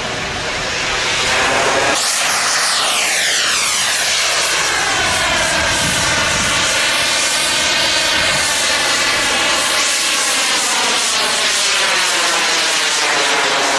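Engine of a large radio-controlled model airplane in flight, running steadily overhead. About two seconds in its sound swells and sweeps down in pitch, then holds level as the plane passes.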